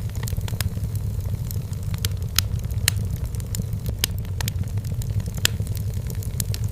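Wood fire burning in a fireplace: a steady low rumble of the flames with irregular sharp crackles and pops of firewood, a few louder pops scattered through.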